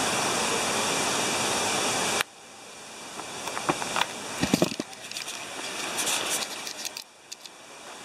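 Steady rush of falling water from a mini golf course's artificial waterfall, cut off abruptly about two seconds in. Then much quieter, with a few short clicks and knocks, before the water sound slowly builds again near the end.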